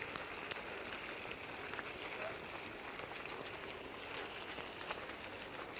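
Steady outdoor background noise, a even hiss-like wash, with faint scattered ticks.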